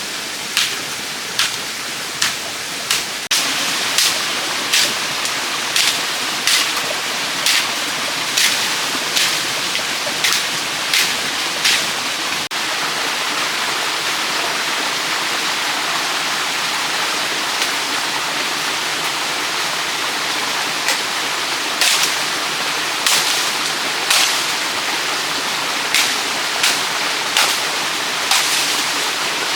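Repeated sharp strikes of a hand tool on bamboo, a little over one a second, stopping for several seconds in the middle and then starting again. Under them runs a steady rushing noise.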